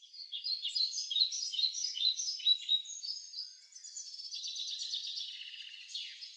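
Wild birds singing: quick, varied chirping notes over the first three seconds or so, then a denser, faster twittering, and a sharp falling note near the end.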